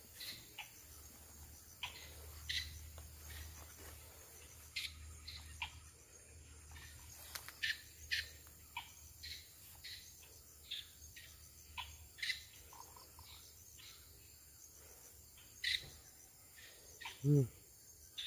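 Scattered short, high bird chirps over quiet outdoor background, with a faint low hum through the first two-thirds. Near the end there is one brief low voice sound.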